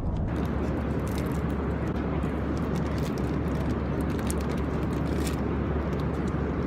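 Steady airliner cabin noise: the even rush and low hum of the engines and air system heard from a passenger seat, with a few faint clicks and rustles over it.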